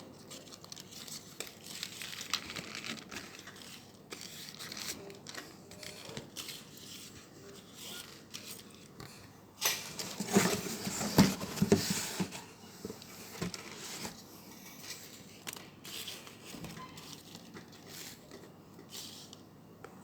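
Paper rustling and crinkling in handling, with a louder stretch of crumpling about ten to twelve seconds in.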